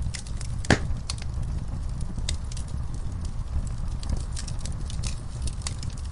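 Wood fire burning in a fireplace: a steady low rumble of flames with frequent sharp crackles and pops, one louder pop a little under a second in.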